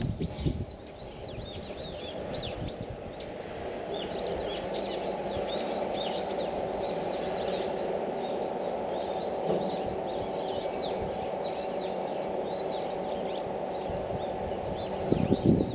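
Small birds chirping busily, many quick overlapping chirps, over a steady low hum. A few loud low thumps come near the end.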